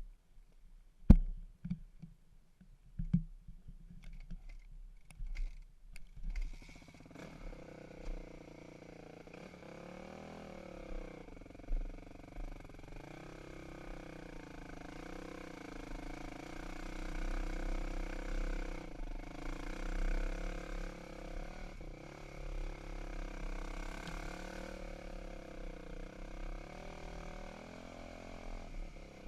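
A few sharp knocks and clicks of handling, then a dirt bike engine running from about six seconds in, its pitch rising and falling slightly.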